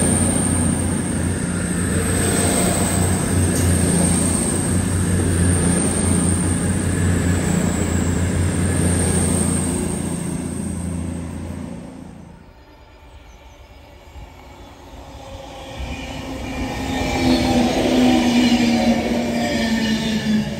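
An Avanti West Coast train running past the platform with a steady low drone, which ends about twelve seconds in. Then an 11-coach Avanti Class 390 Pendolino electric train approaches and passes, its running noise growing louder near the end.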